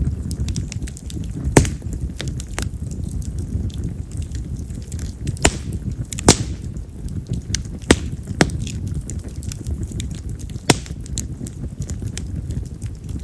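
Wood fire of split wild mountain cherry (yamazakura) logs, burning with a steady low flame rumble and frequent crackling. Several sharp, loud pops go off, the loudest about one and a half, six and eight seconds in; this firewood is known for pops loud enough to recall firecrackers.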